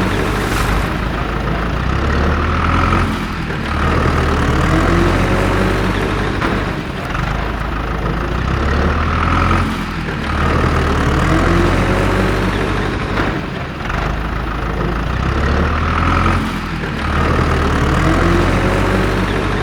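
A heavy vehicle engine running steadily. The same rumbling pattern repeats about every three and a half seconds.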